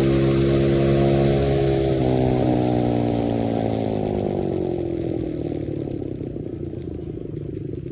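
125cc dirt bike engine running at steady revs, then easing off about two seconds in: the pitch slides down and the sound fades.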